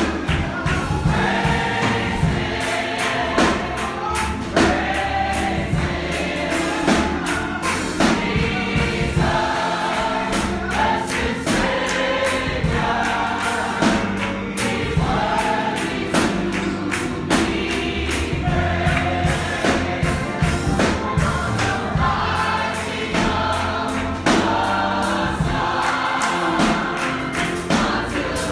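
Church congregation singing a gospel song together over a steady percussive beat.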